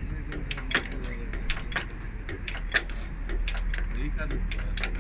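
Irregular metallic clicks and clanks of hand tools working on a bus wheel during a tyre change, about a dozen knocks with the sharpest a little under three seconds in, over a steady low hum.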